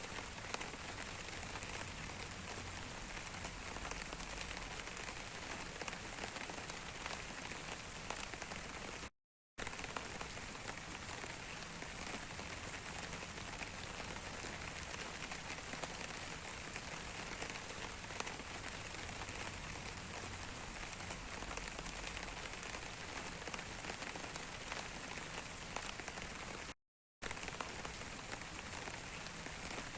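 Steady rain falling on a surface, a dense patter of drops. The sound cuts out completely twice for about half a second, once about nine seconds in and again near the end.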